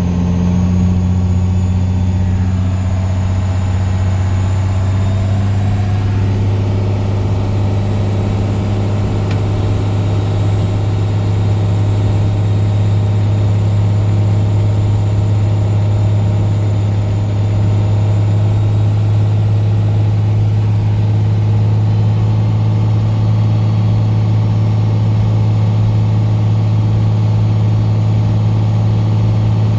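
12-valve Cummins turbo diesel engine running steadily while the truck is driven, a deep, even drone with a faint high whine above it.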